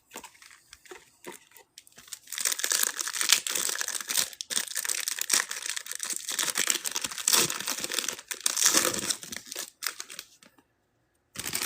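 Plastic trading card pack wrappers being torn open and crumpled, a dense crinkling from about two seconds in that stops shortly before the end, after a few light handling clicks at the start.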